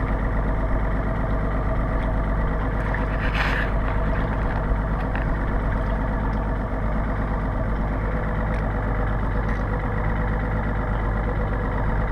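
Boat engine idling steadily, with a brief hiss about three and a half seconds in.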